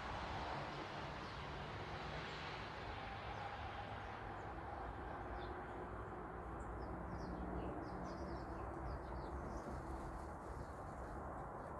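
Faint, short chirps from small songbirds, scattered through the second half, over a steady low background rumble.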